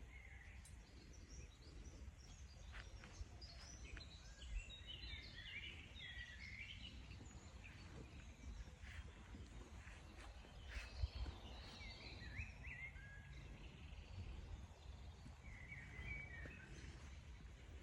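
Faint birdsong outdoors: several short bursts of chirping come and go, over a low steady rumble, with a couple of soft knocks about four and a half seconds and eleven seconds in.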